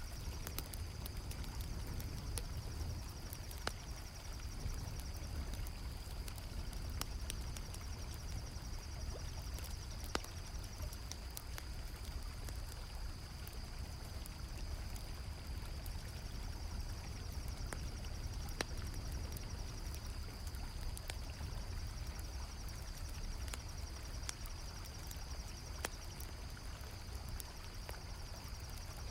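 Low, steady rush of flowing river water, with crickets trilling steadily in a high band and a campfire crackling with scattered sharp pops.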